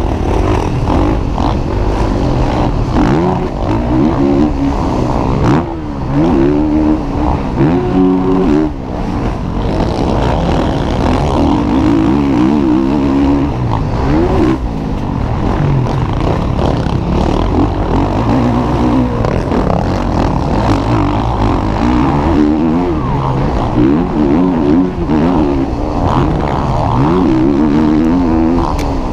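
Several MX1 motocross bikes racing on the track. Their engines rev up and drop back again and again as the riders work the throttle and gears, with more than one engine often heard at once.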